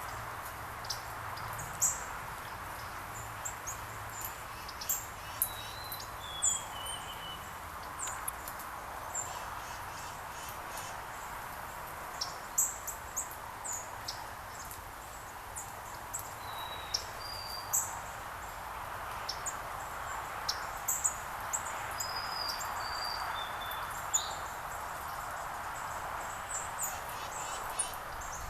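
Small songbirds chirping outdoors: many short, high chips scattered throughout, with a few short whistled notes that slide down in pitch, over a steady background rush.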